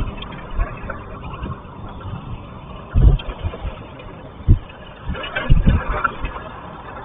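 Wind buffeting the microphone: a steady low rumble broken by several short, sudden gusts of flutter, the strongest about three and four and a half seconds in and again near six seconds.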